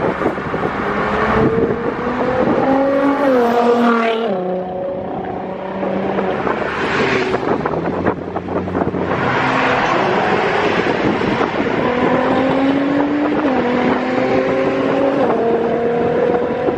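Car engine pulling hard through the gears, its pitch climbing and dropping back at each upshift, several times over, with heavy wind rush.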